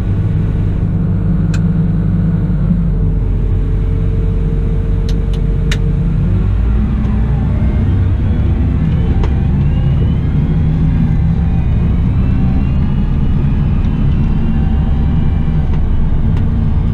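Cat 972M XE wheel loader's diesel engine running steadily under work; its note shifts about six to seven seconds in, and faint rising whines come and go in the middle. A few light clicks near the start.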